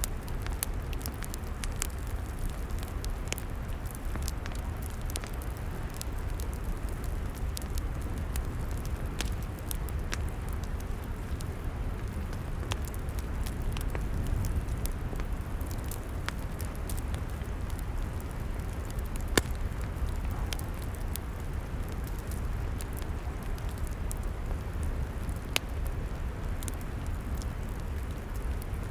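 Log fire crackling: many sharp pops and snaps over a steady low rumble, with two louder pops, one about two-thirds of the way through and another near the end.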